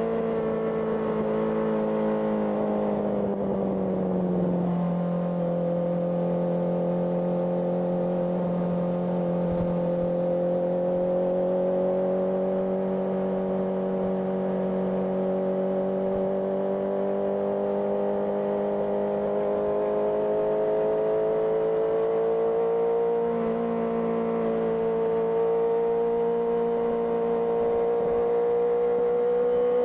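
Honda CBR650R inline-four engine through an IXIL IXRACE aftermarket exhaust while riding. The engine note drops over the first few seconds as the revs fall, then holds a steady cruise and climbs slowly, with a small change in pitch about three-quarters of the way through.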